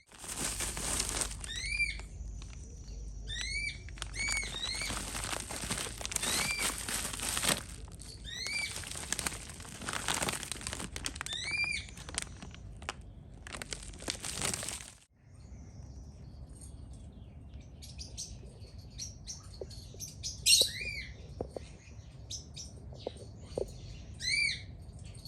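Birds calling with short, repeated, arched chirps over loud bursts of rushing noise. About halfway through the noise stops abruptly, leaving quieter chirping with a few light clicks.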